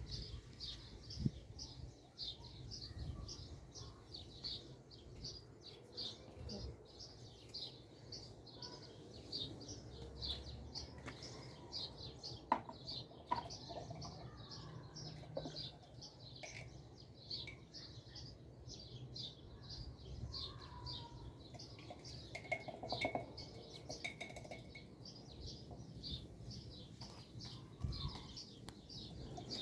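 A small bird chirping over and over in an even rhythm, about two high chirps a second, with a faint low rumble and a few light clicks.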